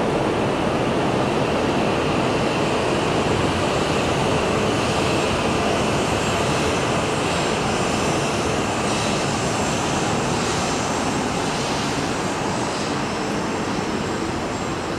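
E5 series Shinkansen electric train accelerating out of the station past the platform: a steady loud rush of its cars running by on the rails, easing off slightly near the end as the train moves away.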